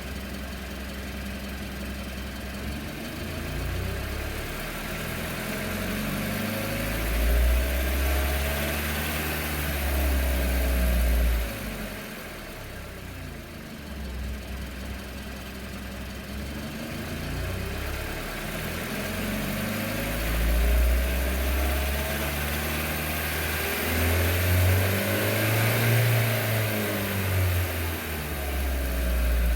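2019 Hyundai Tucson's 2.0L Nu four-cylinder engine running at idle, its deep hum swelling louder twice and easing off between.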